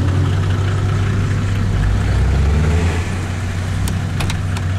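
Off-road vehicle engines idling with a steady low hum, the engine note swelling briefly about two seconds in. A few sharp clicks near the end.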